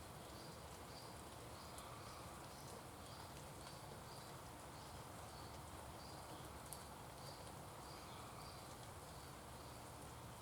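Faint outdoor ambience: a steady hiss with a short high chirp repeating at an even pace, about three every two seconds.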